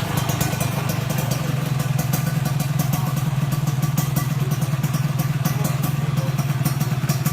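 Kawasaki KR150's two-stroke single-cylinder engine idling steadily at an even pitch.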